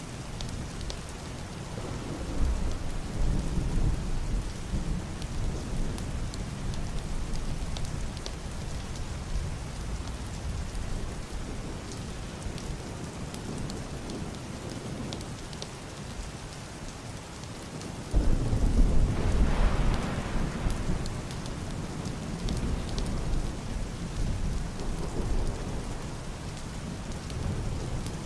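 Heavy rain drumming steadily on a wooden roof and a glass window, with fine drop ticks throughout. Muffled thunder rolls twice: a low rumble about two seconds in, and a louder, sudden crack about eighteen seconds in that rumbles on and fades over several seconds.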